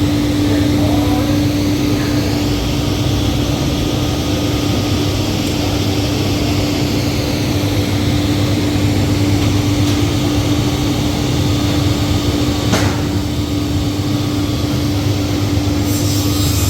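A motor or engine running steadily with a constant hum, with one short sharp sound about two thirds of the way through; near the end the hum's tone stops and a higher hiss takes over.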